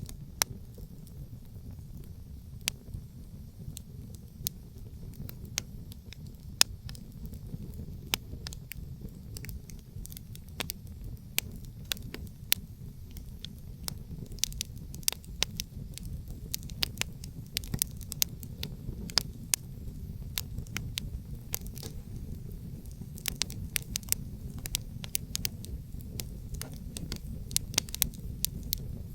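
Wood campfire crackling, with irregular sharp pops and snaps that come more often from about halfway through, over a steady low rumble of wind.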